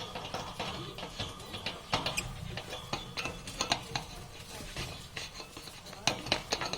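Parrots making scattered short clicks and brief chirps, irregular and a few each second.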